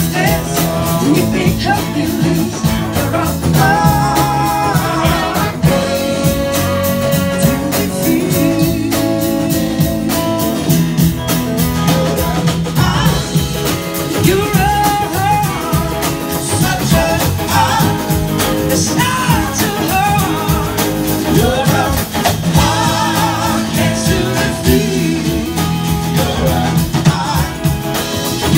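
Blues-rock band playing live: electric guitar over bass and drums with a steady beat, with singing.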